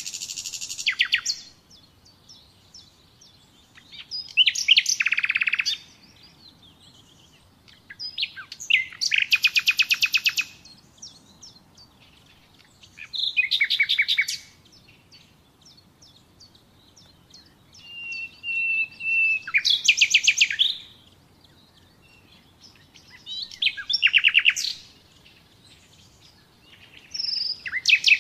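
Nightingale singing: short phrases of rapid repeated high notes and trills about every four seconds, with one long held whistle before a phrase past the middle.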